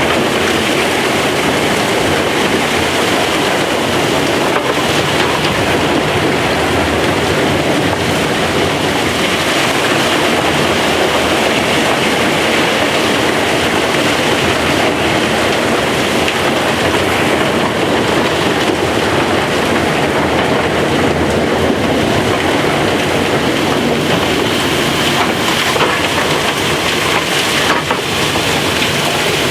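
Opal-mining digging machinery running steadily and loud: a dense, unbroken mechanical rush and rumble.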